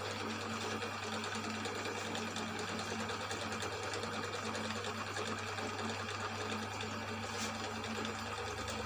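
Cylinder boring machine running steadily with an even motor hum as it cuts through the bore of a Yamaha Mio M3 cylinder block, one of several passes to leave a smooth finish.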